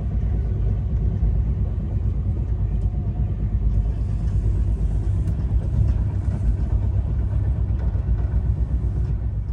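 Passenger train running at speed, heard on board: a steady, loud low rumble of the wheels and running gear on the track.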